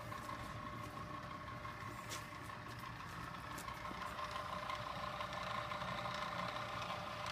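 Handmade model engine and transmission turned over by an electric starter motor through a crossed belt. It runs steadily with a thin high whine over a mechanical whirr, growing slightly louder toward the end.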